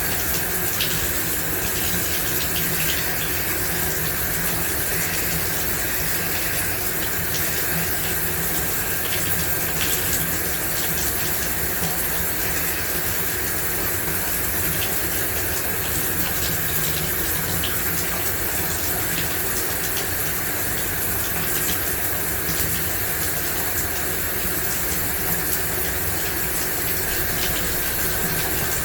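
Shower running steadily, water spraying and splashing in a continuous hiss with faint droplet patter.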